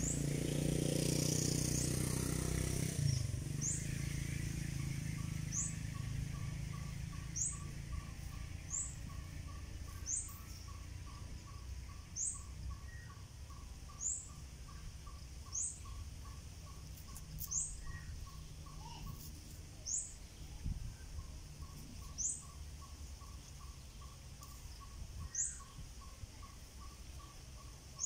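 Birds calling: a short, high, rising chirp repeated every second or two over a rapid, even pulsing note. A low rumbling noise fills the first few seconds.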